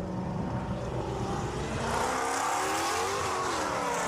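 Performance car engine running hard on a track, its pitch dipping and rising as it revs, with a hiss of tyre and wind noise building about halfway through.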